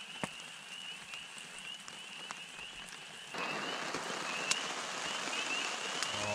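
Steady rain pattering, with a few sharp clicks of a knife against a steel camp plate while a trout fillet is worked.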